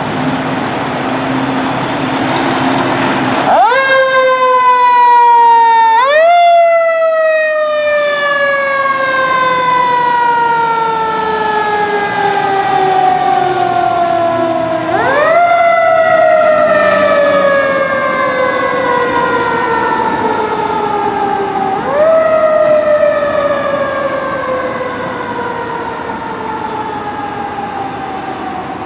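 Fire engine siren on a 2017 Pierce Arrow XT pumper, running code 3. The siren winds up sharply about four times and slowly falls in pitch after each rise, over the truck's engine and road noise.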